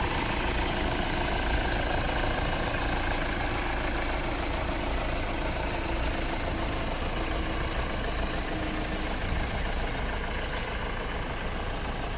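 Honda Accord 2.2 i-CTDi four-cylinder common-rail turbodiesel running steadily, with no revving.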